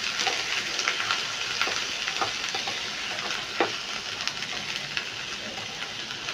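Fresh green peas with chopped onion sizzling in hot oil in a frying pan while a wooden spatula stirs them. The spatula and peas make scattered clicks and scrapes over a steady sizzle.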